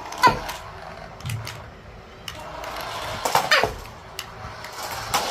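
A baby's short, high vocal squeals, twice, with a few small clicks between.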